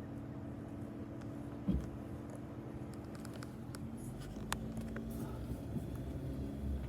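Low, steady hum of a vehicle engine rolling slowly, with one short thump a little under two seconds in and a few light ticks.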